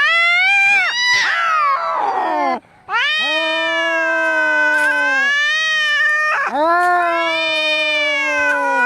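Angry cats caterwauling in a fight: three long, drawn-out wavering yowls with short breaks between, the first turning into a rough, snarling cry partway through.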